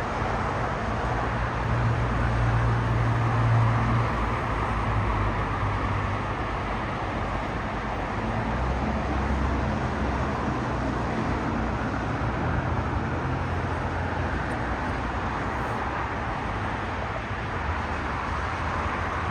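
Steady roar of an airliner's jet engines as it lands, with a low rumble loudest a few seconds in.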